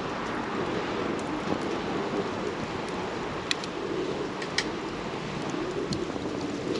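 Wood campfire burning: a steady rush of flame with scattered sharp crackles and pops. Two louder pops come about a second apart around the middle.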